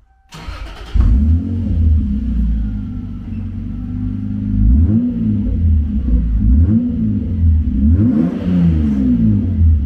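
Lexus SC300's 2JZ inline-six starting about a second in, then running with several quick revs through an exhaust with the mufflers removed and the resonators still in place.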